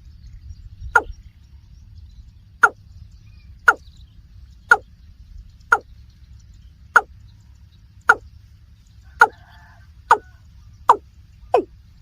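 Watercock calling: a series of short hollow notes, each dropping quickly in pitch, about one a second and coming faster near the end, over a faint low hum.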